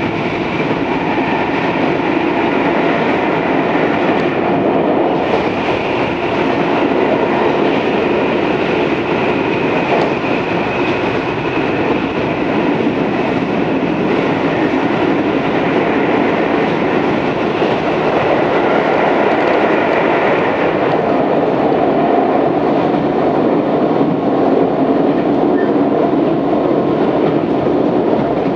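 Tobu 634-series electric train running between stations, heard from inside the car: a steady rumble of wheels on rail with some clickety-clack.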